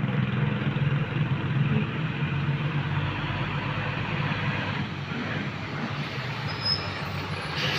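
A large truck passing close by: a loud rush of engine and tyre noise that comes in suddenly and eases a little after about five seconds, over a steady low engine hum.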